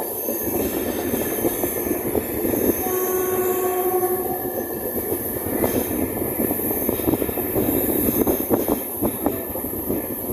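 Passenger express train running on a curve, heard from an open coach door: a steady rumble and rattle of wheels on the rails. Steady tones come and go above it, the clearest about three seconds in.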